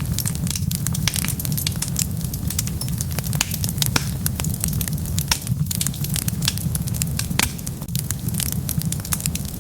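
Wood fire burning with a steady low rumble of flames and many irregular sharp crackles and pops.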